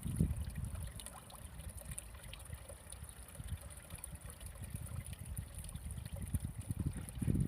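Water sloshing and lapping in irregular low splashes, quieter in the middle and building again near the end, over a steady high hiss.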